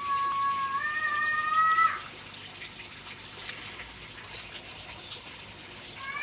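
A long, high, pitched wail that rises slightly and cuts off about two seconds in, then soft water splashing and slurping with small clicks as koi feed at the surface.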